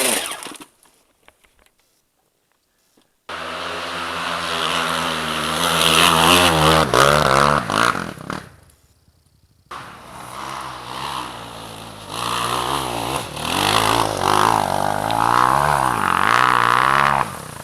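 Enduro motorcycle engine revving hard, its pitch repeatedly rising and falling as the throttle is worked. The sound cuts out abruptly near the start, returns about three seconds in, and has another brief gap about halfway through.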